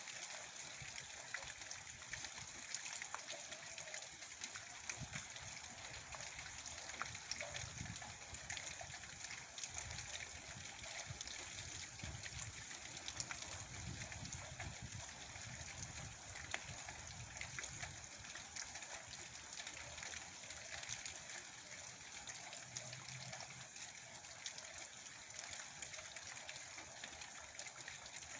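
Rain falling steadily, a dense patter of many separate drop hits.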